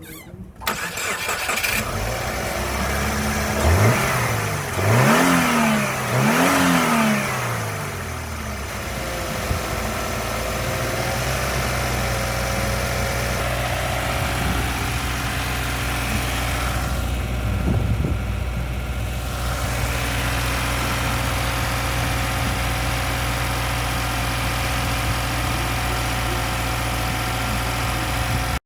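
2014 Subaru WRX's turbocharged flat-four engine starting up, revved briefly three times, then settling into a steady idle.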